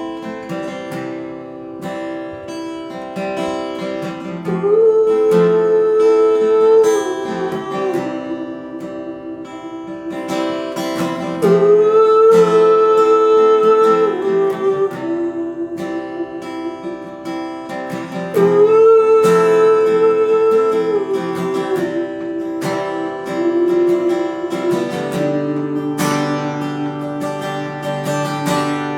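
Acoustic guitar strummed through an instrumental break, with a lead line of long held notes entering three times, about 4, 11 and 18 seconds in.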